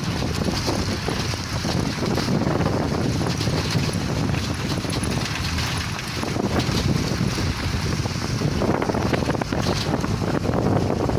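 Wind buffeting the microphone, a loud, steady rumbling noise that rises and falls throughout.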